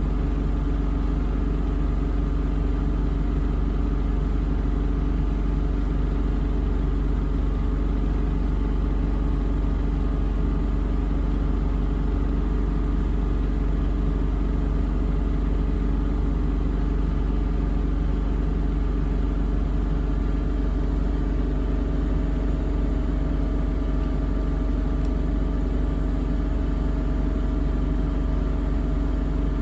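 Miele Navitronic W3985 WPS washing machine in its final spin at 1400 rpm: the drum and motor whir and hum steadily at a constant pitch.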